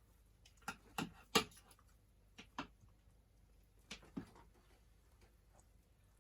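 Scattered clicks and knocks of cutlery against plates during a meal: a few quick ones in the first second and a half, a pair near two and a half seconds and another pair near four seconds, then only a faint background.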